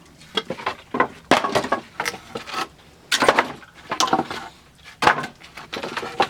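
Pieces of firewood clattering and knocking against each other in irregular bursts, about one cluster a second.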